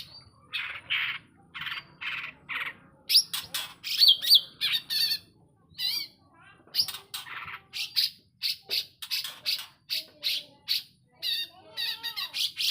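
Cucak ijo (green leafbird) singing hard: a fast run of short, harsh chattering notes mixed with wavering whistled phrases and a few falling glides, the lively song used to lure other cucak ijo.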